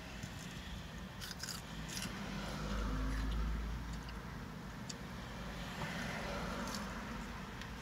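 Crunching and chewing of a mouthful of raw salad (lettuce, cucumber, tomato) taken off a plastic fork, with a few sharp crisp clicks in the first two seconds and again near the end. A steady low rumble runs underneath, swelling for about a second midway.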